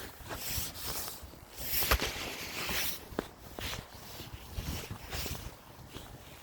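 Footsteps with a few scattered knocks and clicks.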